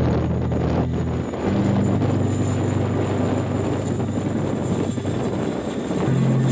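A helicopter in flight, a steady rushing engine and rotor noise on an old film soundtrack. Low sustained tones sit under it, changing pitch in steps about a second and a half in and again near the end.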